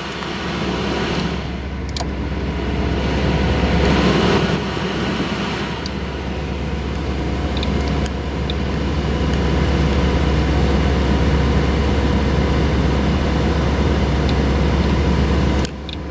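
1964 Ford Thunderbird's heater blower fan blowing air through the dash vents, over a steady low hum with the engine running. The airflow shifts in level a few times with faint clicks as the vent positions are switched, and the low hum drops off suddenly near the end.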